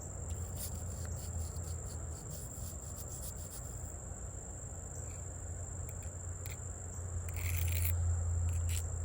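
Crickets trilling in one steady high note over a low hum, with scattered short scratchy sounds. A louder rasp comes about seven and a half seconds in and lasts about a second.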